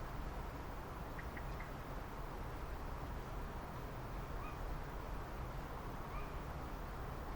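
Steady low rumble and hiss with a few faint, short bird calls: a quick cluster of three notes about a second in, then single short calls near the middle and again later.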